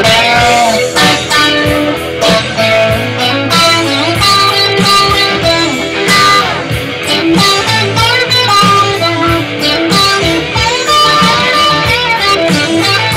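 Electric guitar playing a rock solo with bent notes, over a band with drums and bass.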